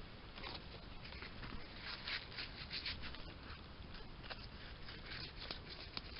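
A bamboo cane being wiped with a handful of leaves during fire curing: irregular dry rustling and rubbing strokes.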